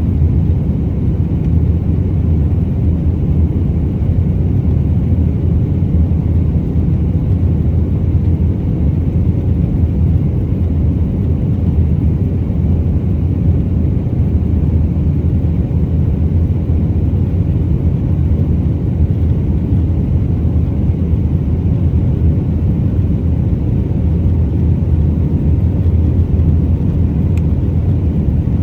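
Steady, loud low rumble inside the cabin of an Airbus A319-131, from its IAE V2500 jet engines.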